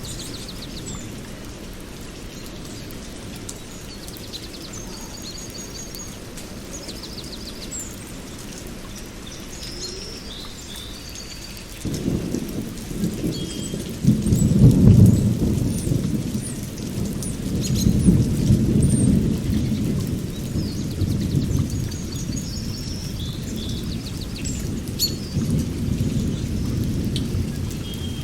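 Steady rain with birds chirping, and a long roll of thunder that breaks in suddenly about twelve seconds in, swells to its loudest a few seconds later and rumbles on.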